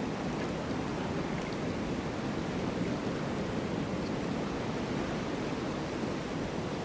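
Steady snowstorm ambience: an even, unbroken rush of storm wind with no distinct gusts or impacts.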